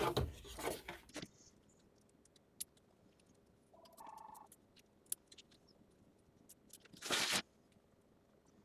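Small scissors snipping appliqué fabric close to the stitching line, as scattered faint clicks, with fabric-handling rustles at the start and a brief louder rustle about seven seconds in. A short tone sounds once about four seconds in.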